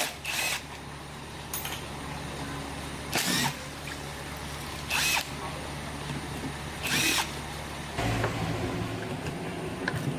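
A motor running with a steady low hum that changes pitch about eight seconds in, broken by five short, loud bursts of noise spaced about two seconds apart.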